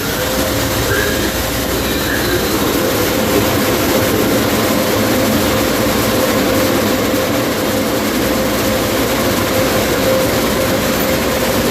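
Touch-free car wash blower dryers running at full speed: a loud, steady rush of air with a steady whine.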